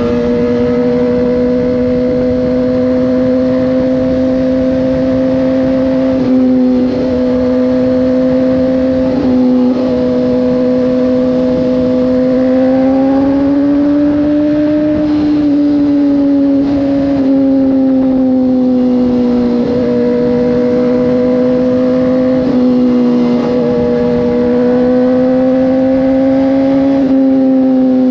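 Motorcycle engine running steadily under way, recorded from on the bike. Its note holds level, rises gently and falls back near the middle, and breaks briefly a few times.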